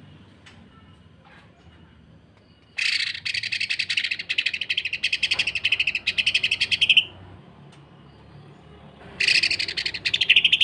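Cucak ijo (leafbird) song: two runs of rapid, harsh chattering notes fired off in quick succession like a sewing machine, about ten a second. The first lasts about four seconds, starting about three seconds in; the second starts about nine seconds in.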